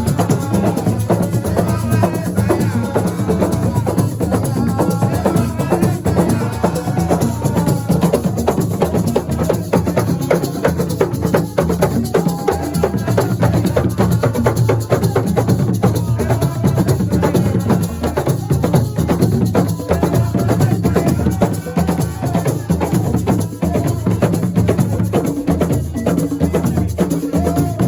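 Live music with dense, fast percussion: drums, a shaker and sharp wood-block-like clicks, under a wavering melodic line.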